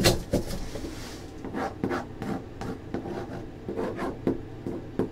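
A marker pen drawing in short rubbing strokes, scratching out a smiley face, with a light knock at the start.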